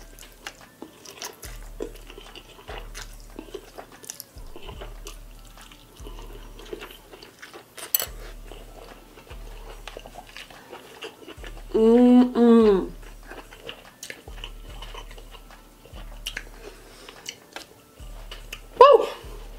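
Close-miked chewing of a mouthful of black bean noodles and king crab meat, with many small wet mouth clicks. About twelve seconds in there is a short hummed vocal sound, rising then falling, and another brief one near the end.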